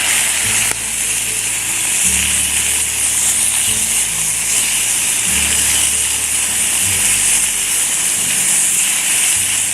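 Chicken sizzling steadily as it fries in a pan, under background music with a slow, low bass line.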